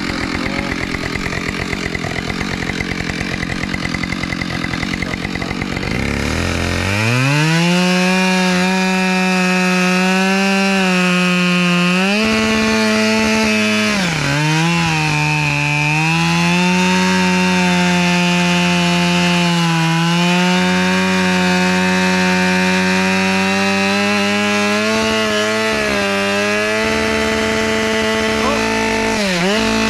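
Chainsaw cutting through a fallen tree. It runs rough and low for the first few seconds, then revs up about seven seconds in and holds a steady high-speed whine through the cut, dropping briefly in pitch twice: once around the middle and once near the end.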